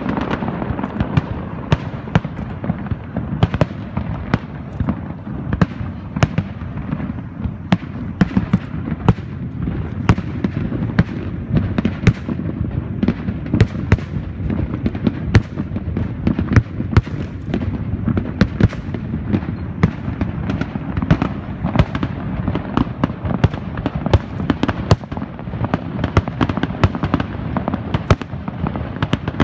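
Fireworks display: a rapid, continuous stream of sharp bangs and crackles over a steady low rumble.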